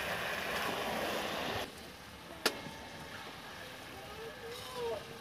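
Chaap in masala sizzling in a steel kadhai as it is stirred with a ladle; the loud sizzle stops abruptly about a second and a half in, leaving a quieter hiss. A single sharp clink of the metal ladle against the pan comes about halfway through.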